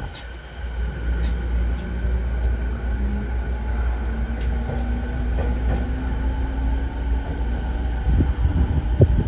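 Rinkai Line 70-000 series electric train heard from inside the car, running with a steady low rumble. Its motor whine rises slowly in pitch as the train gathers speed. A few low knocks from the wheels come near the end.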